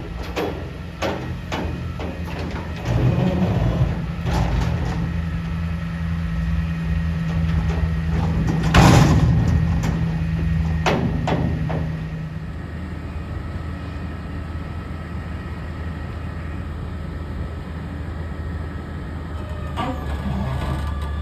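Peterbilt 320 front-loader garbage truck's engine running under load, with a steady held tone that stops about twelve seconds in and repeated metal knocks and clanks over the first half. A loud, roughly second-long burst of noise near the middle is the loudest event.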